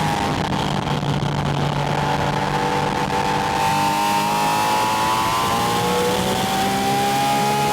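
Porsche 718 Spyder RS's 4.0-litre flat-six engine under load, heard close at its air intake with wind rush. The engine note dips slightly at first, then holds and slowly climbs as revs build through the second half.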